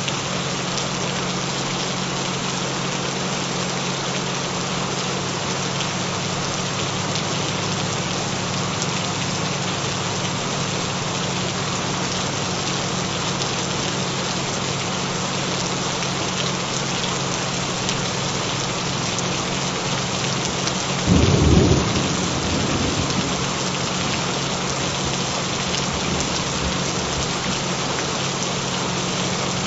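Steady rain falling, with a short, loud rumble of thunder about two-thirds of the way through that fades away within a couple of seconds. Steady low hum tones of the track's added 'frequencies' run underneath the rain.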